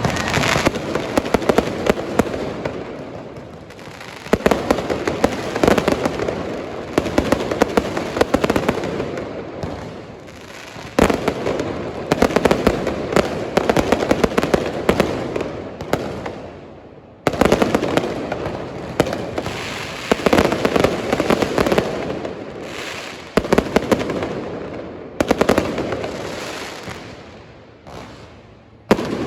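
Aerial fireworks display: dense volleys of rapid bangs and crackling shells that come in several waves, each surging loud and then fading before the next volley starts.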